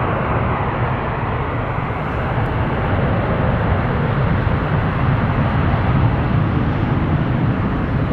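Jet airliner engines: a steady, loud rush that swells a little around the middle.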